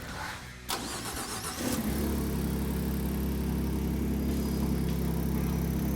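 Ford 3.5L EcoBoost twin-turbo V6 with a Borla cat-back exhaust being started: the starter cranks about a second in and the engine catches, then settles into a steady idle. This is the first start after the turbo and exhaust install, done to bleed the cooling system.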